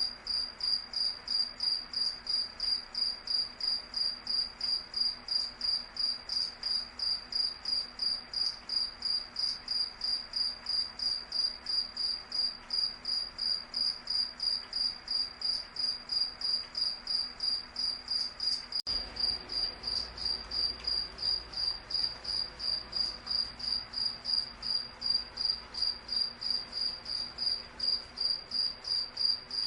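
Cricket chirping in a steady, even rhythm of about three high-pitched chirps a second.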